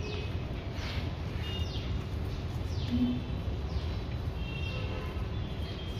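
Birds calling in the background: short falling chirps about once a second, with a few brief high whistled notes between them, over a steady low rumble.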